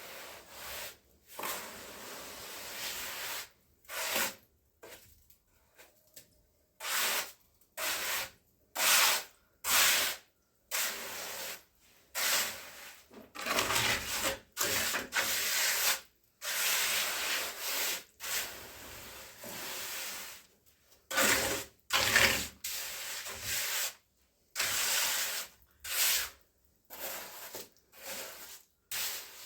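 Repeated rubbing strokes of a hand tool scraping over a rough surface, irregular, about one stroke a second with short pauses between, some strokes longer and run together.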